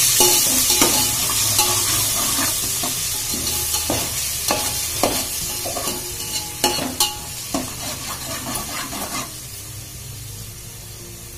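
Ginger and garlic paste sizzling in hot oil in a metal pot while a ladle stirs it, clinking and scraping against the pot. The sizzle fades as the paste fries, and the stirring stops about nine seconds in.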